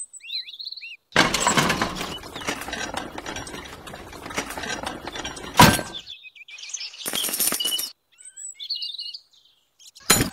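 Birds chirping in short rising and falling calls at the start and again near the end. In between is a longer stretch of rough noise that ends in a sharp knock about five and a half seconds in.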